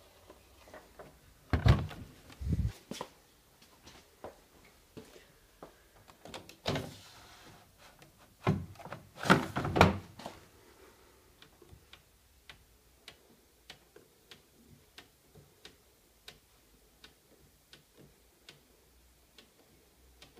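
Several heavy clunks and thumps in the first half, like doors being handled. Then a steady mechanical ticking, about two clicks a second.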